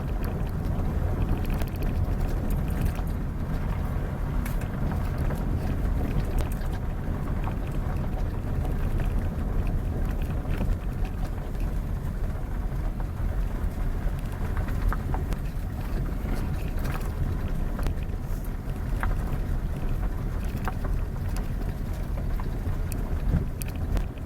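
Steady low rumble of a moving vehicle, with wind buffeting the microphone and a few faint clicks and rattles.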